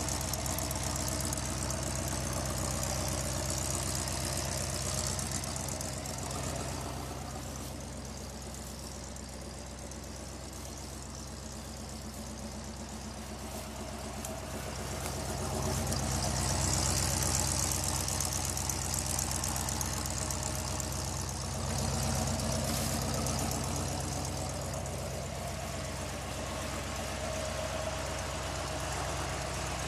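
1956 Dodge H-series truck engine idling steadily. It fades somewhat from about a quarter of the way in and comes back louder a little past halfway.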